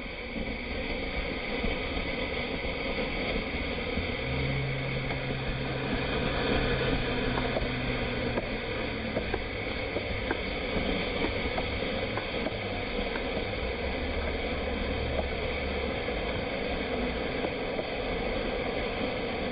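Handheld toy fountain firework spraying sparks with a steady hiss, with scattered light crackles in the middle.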